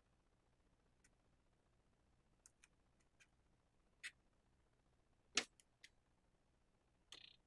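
Near silence with a few scattered light clicks and taps. The loudest comes about five seconds in, and a short scratchy scrape follows near the end.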